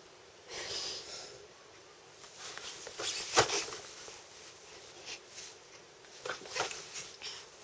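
A baby's soft breathy huffs and sniffs, a few short bursts with pauses between, the sharpest about three and a half seconds in.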